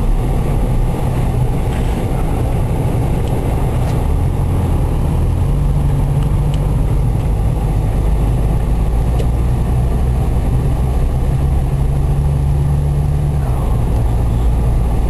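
Steady low rumble inside a car's cabin: engine and road noise with the heater or air-conditioning fan blowing. The low hum shifts in pitch slightly a couple of times.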